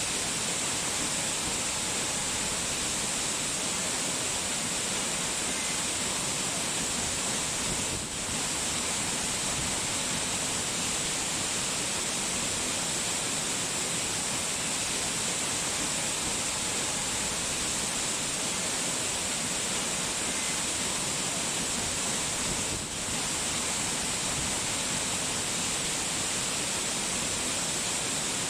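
Steady rushing water noise, an even hiss without a break except two brief dips in level.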